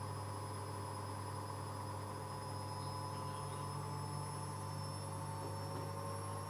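Arçelik washing machine spinning, a steady low hum under a motor whine that slowly rises in pitch as the drum gathers speed in the spin cycle.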